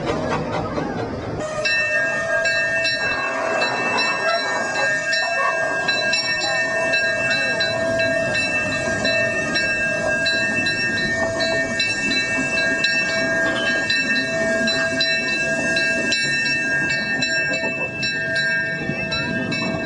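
1891 Baldwin oil-fired steam locomotive running, with a long, steady chord of several tones held from about a second and a half in until near the end, like a chime steam whistle or blowing steam.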